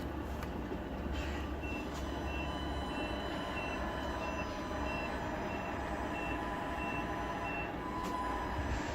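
Reversing beeper on a Tamiya RC truck's sound unit, about eleven short high beeps, roughly one and a half a second, over the module's steady engine rumble: the truck is backing up.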